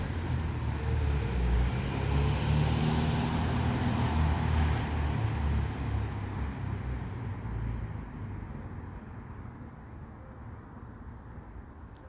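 A heavy vehicle passing with a low rumble, loudest in the first few seconds and then fading away.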